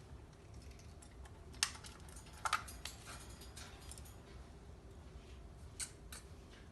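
Pet cockatiels making a few scattered short chirps and clicks, about half a dozen.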